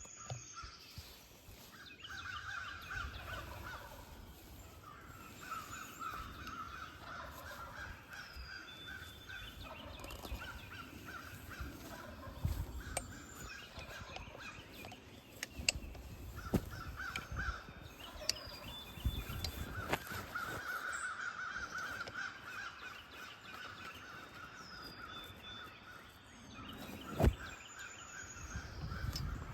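Birds calling in repeated harsh phrases over gusts of wind buffeting the microphone, with a few sharp clicks.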